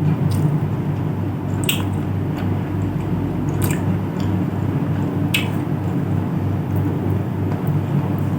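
Close-miked chewing of soft, wet food with squishy mouth sounds, and a few sharp wet smacks spaced a second or two apart.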